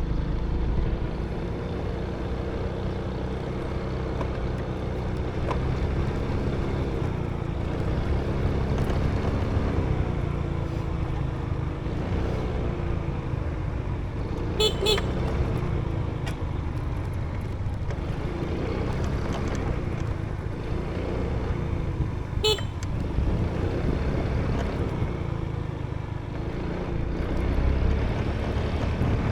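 Motorbike engine running while riding, its pitch rising and falling with the throttle. A short horn toot sounds twice, about fifteen and twenty-two seconds in.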